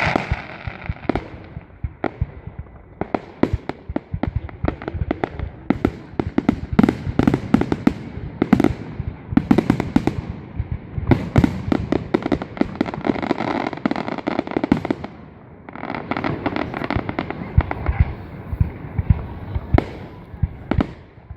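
Fireworks display: shells bursting in quick succession, dozens of sharp bangs coming thickest from about three seconds in.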